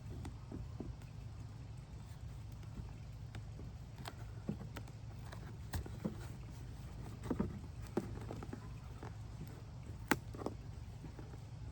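Scattered light clicks and knocks from handling objects by hand, with a sharper click about ten seconds in, over a low steady hum.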